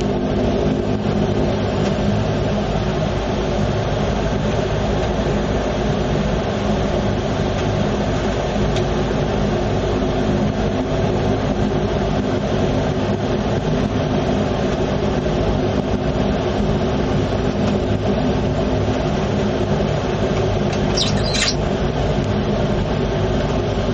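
Turboprop airliner's engines running with a steady drone of low held tones, heard from inside the cabin.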